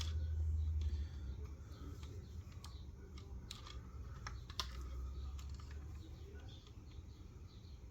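Handling noise from a diecast model car being turned over in the hands: scattered small clicks and taps with a low rumble of handling.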